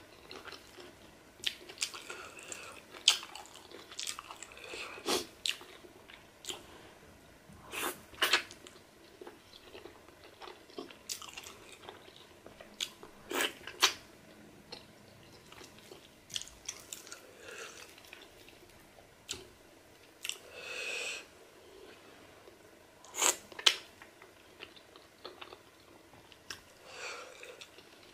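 Close-miked eating by hand: a person chewing and biting pork and garri fufu, with wet mouth clicks and lip smacks, and a few sharper, louder clicks. Two longer breathy sounds come in the second half.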